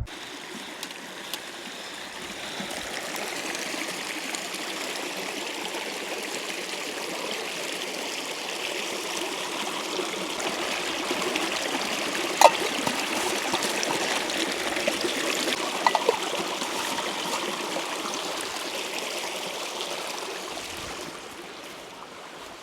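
Small clear stream flowing and trickling steadily over stones. It grows louder toward the middle and eases off near the end, with a couple of short sharp clicks partway through.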